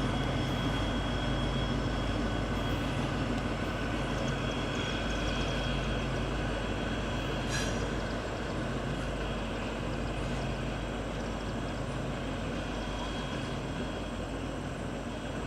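A train rolling by on the rails: a steady rumble with a faint thin squeal, slowly easing off, and one sharp click about halfway through.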